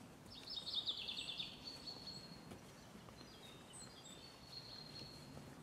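Small songbird singing: a quick run of high, rapid notes about half a second in, then fainter thin high calls over a quiet outdoor background.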